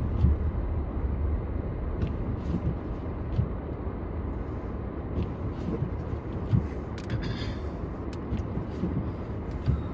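Car being driven: a steady low rumble of road and engine noise, with a brief hiss about seven seconds in.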